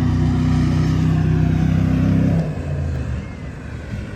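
A heavy truck engine running loud and steady, then dropping off sharply about two and a half seconds in and fading to a low rumble.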